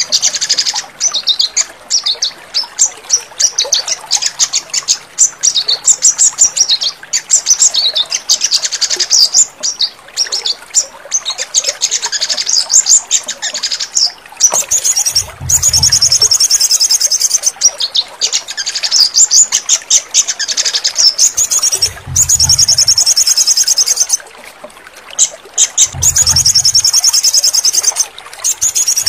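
Songbird song, sogon: quick, varied high chirps and twitters. About halfway it turns into long, rapid, high trills of a second or two each, several of them joined by a brief low hum.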